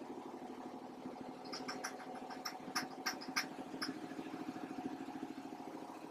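Engine idling steadily with a fast, even pulse, and scattered light clicks and ticks between about one and a half and four seconds in.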